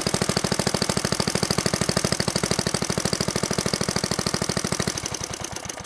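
Old Clinton single-cylinder small engine running steadily with a fast, even firing beat; about five seconds in it slows and fades as it is shut off.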